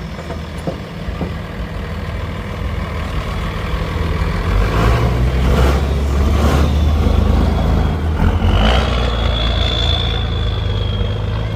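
Pulling truck's engine running, its rumble growing louder about four seconds in, with a few short swishes and a thin high whine near the end.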